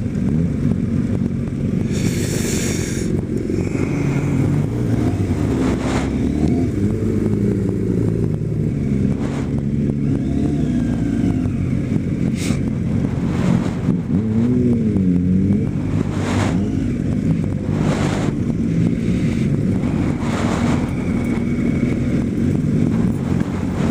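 Kawasaki ZX-10R sport bike's inline-four engine running while ridden, its pitch rising and falling with the throttle.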